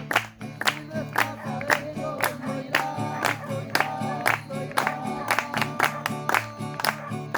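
A group singing a worship song to guitar, with sharp claps or strums keeping a steady beat of about two a second.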